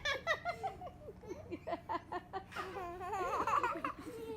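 High-pitched human laughter, giggling in quick repeated pulses.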